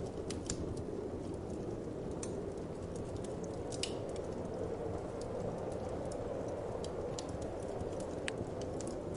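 Wood fire crackling, with irregular sharp pops and snaps, over a steady low whoosh of wind.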